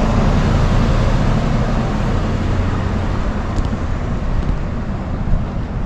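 Road traffic: vehicles passing, a steady low rumble that slowly fades.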